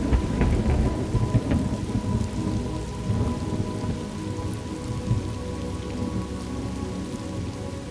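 Thunderstorm ambience: rain falling steadily, with a low roll of thunder rumbling through the first couple of seconds and then dying away under the rain.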